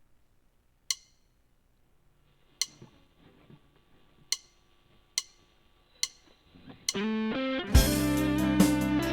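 A few sharp taps spread out over several seconds, then about seven seconds in a distorted electric guitar plays a quick run of notes. Loud band music with a steady beat comes in just before the end, during a sound check.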